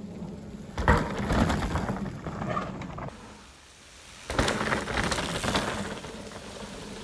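Mountain bike riding noise on a wet trail: tyres, rattle and wind rushing on the camera, loudest about a second in and again a little past halfway, with a quieter dip between.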